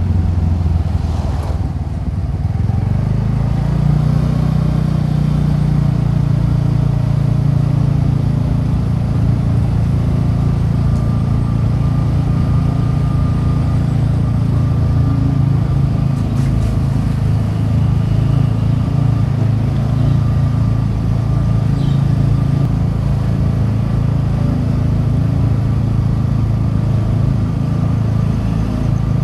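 TVS Ntorq 125 scooter's single-cylinder four-stroke engine and stock exhaust running while riding: the engine note dips about two seconds in, climbs back up, then holds steady.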